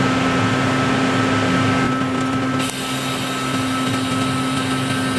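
TIG welder running while silicon bronze rod is brazed onto a steel swing arm: a steady electrical hum and hiss. About two and a half seconds in, the hiss changes and turns brighter.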